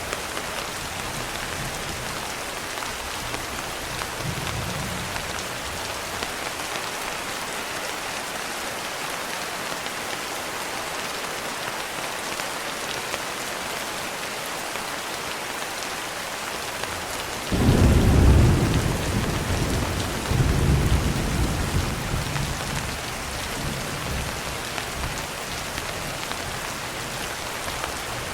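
Steady rain falling, with a roll of thunder that breaks suddenly about two-thirds of the way through, swells again a couple of seconds later and rumbles away over several seconds.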